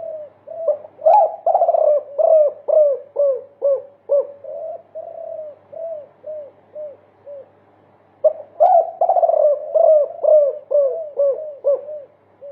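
Derkuku (spotted dove) cooing a long multi-note 'kuk' song: two runs of quick, low, arched coos at about two a second, each run loud at first and trailing off, the second starting about eight seconds in.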